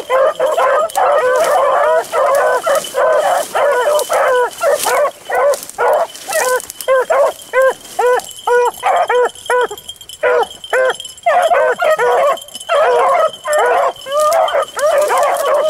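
A pack of beagles baying while running a rabbit track, many voices overlapping. The chorus thins to separate bays, a few a second, about halfway through, then swells again near the end.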